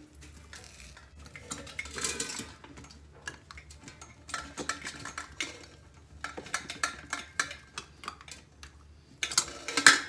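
Metal clinking and clattering in irregular clusters, with a louder scraping rush about two seconds in and another near the end.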